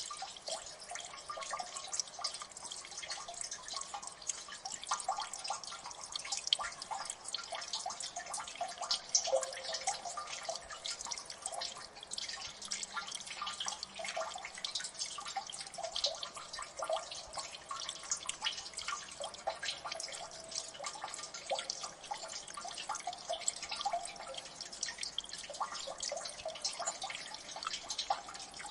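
Many water drips falling in a gully, a dense, irregular patter of small plinks and splashes.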